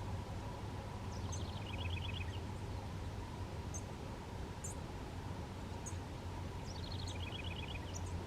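A small bird calls twice with a short, quick, falling trill, about five seconds apart, along with scattered thin high chips, over a steady low hum.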